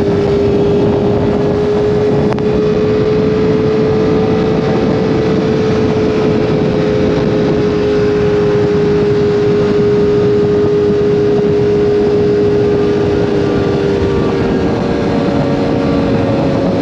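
Sport motorcycle engine running at a steady cruising speed with wind rush, its note holding one pitch. The pitch shifts near the end.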